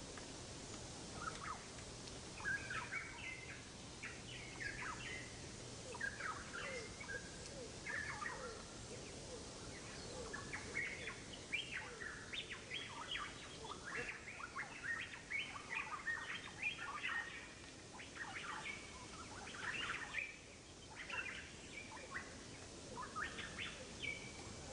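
Many small birds chirping steadily, a busy scatter of short, high chirps over a faint steady hiss.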